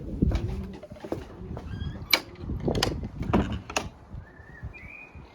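Several sharp knocks and clatters, with a brief squeak near the end.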